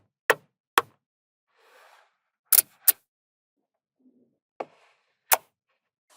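Small magnetic balls snapping together with sharp clicks, about six at irregular intervals, some in quick pairs, with faint rattling of balls shifting in between.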